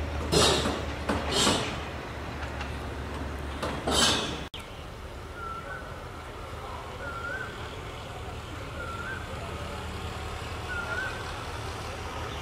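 Train at a station: a steady low hum with three loud short hissing bursts in the first few seconds. The sound cuts off abruptly to a quieter steady background, in which a faint short chirp repeats four times about every two seconds.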